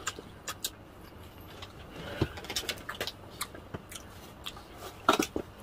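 Close-up chewing of crispy fried chicken, with scattered small crunches and mouth clicks. A short, louder sound comes near the end.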